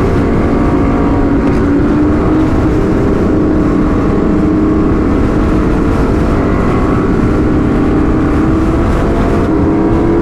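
Sportbike engine running at a steady cruise, its pitch drifting gently up and down, with a heavy wind rumble on a helmet-mounted microphone.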